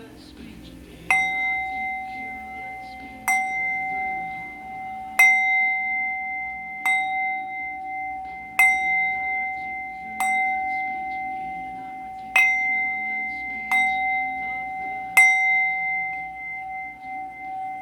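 Tibetan singing bowl struck about nine times, every second and a half to two seconds. Each strike rings on in steady, overlapping tones, and the ring carries on after the last strike.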